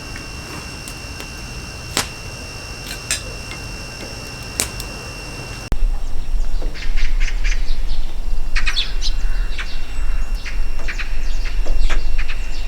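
A steady high-pitched whine with a few sharp clicks, then an abrupt change to wind rumbling on the microphone with small birds chirping repeatedly.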